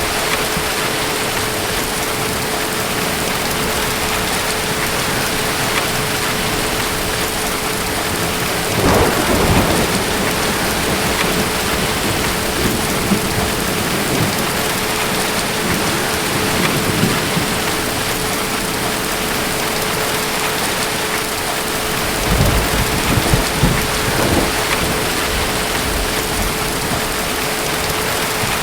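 Steady heavy rain with distant thunder rumbling, once about nine seconds in and again for a few seconds about three-quarters of the way through.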